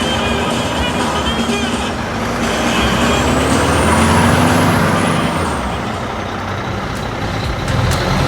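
Heavy truck engine running, its pitch rising for a few seconds then settling back, with a high whistle that climbs and falls along with it.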